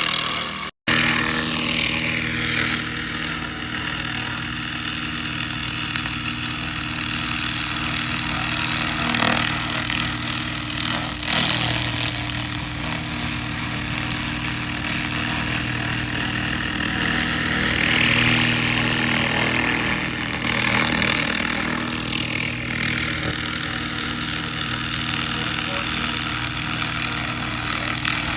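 SFX 2000 laser rust remover running: a steady machine hum under a hissing noise from the beam working the rusty metal, which swells and fades, loudest about two-thirds of the way through. The sound cuts out for an instant about a second in.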